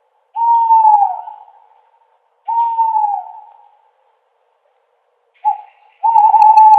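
Owl hooting: two hoots about two seconds apart, each about a second long and dropping in pitch at the end, then a short note and a longer hoot starting near the end.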